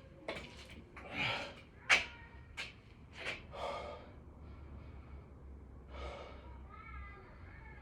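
A man breathing hard and fast, out of breath from doing burpees: a run of sharp gasping breaths, one or two a second, with a louder one about two seconds in, easing off in the second half.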